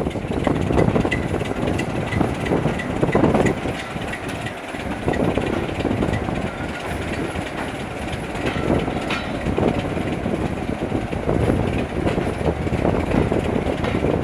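Railway passenger coach running along the track, heard at an open window: steady rumble of the wheels with a rhythmic clatter over the rail joints.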